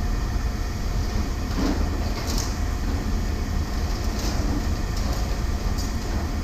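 Steady low rumble of a running vehicle, with a few faint ticks.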